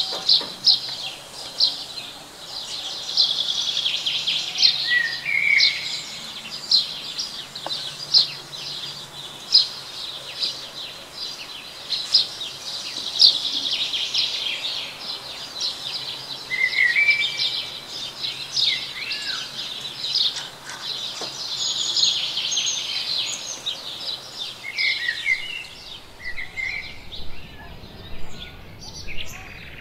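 Songbirds chirping and twittering: a steady run of short, sharp high chirps, with a few quick rising notes now and then, over a faint steady hum.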